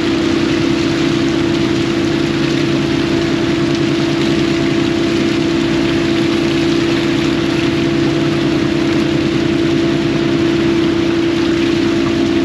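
Fishing boat's engine running at a steady speed, a constant droning hum over a wash of noise.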